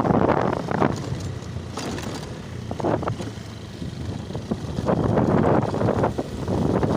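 Wind buffeting the microphone: a loud low rumble that comes and goes in gusts, easing off for a while in the middle.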